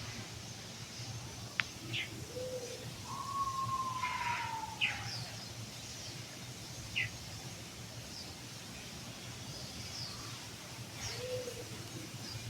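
Several birds calling: scattered short high chirps, one long falling whistle about three seconds in, and two short low notes, over a steady low hum.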